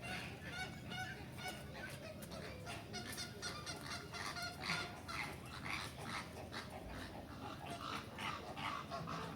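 Many birds calling at once: a dense, continuous chorus of short, repeated calls overlapping one another.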